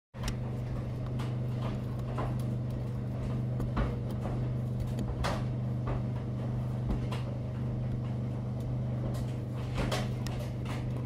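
Indoor room ambience: a steady low electrical hum with scattered small clicks and knocks, like objects being handled.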